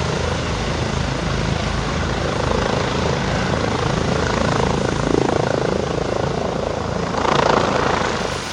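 Helicopter rotor and engine running steadily, with a fast rhythmic chop of the blades underneath, growing louder briefly near the end.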